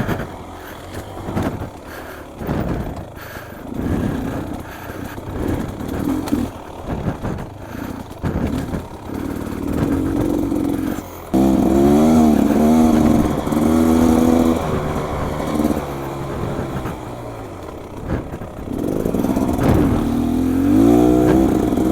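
Beta XTrainer 300 two-stroke dirt bike engine ridden on a trail, its revs rising and falling with the throttle. It is quieter at first, with scattered knocks, and grows louder, revving up and down, from about halfway through.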